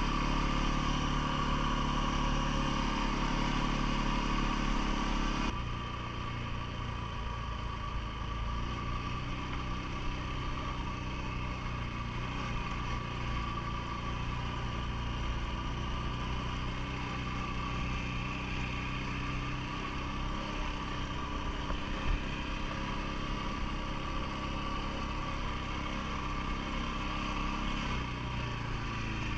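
CFMoto ATV engine running steadily. It eases off and gets quieter about five seconds in, then holds an even drone.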